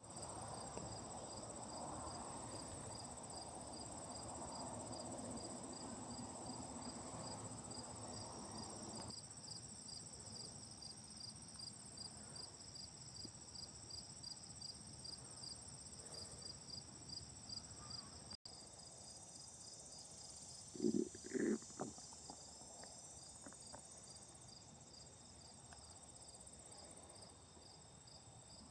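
Crickets chirping: a regular chirp about three times a second over a steady high buzz of other insects. Low rumbling noise runs for the first nine seconds or so, and two short louder sounds come about two-thirds of the way through.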